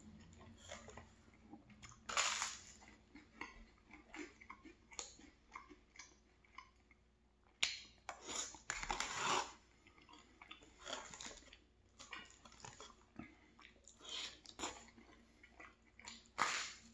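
Close-miked chewing of pulled pork and bean stew, coming and going irregularly, with a crunchy bite of buttered toast near the end.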